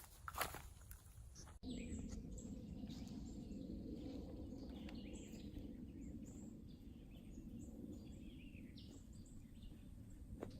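Faint birdsong: many short chirps and calls over a low steady hum, starting abruptly about a second and a half in.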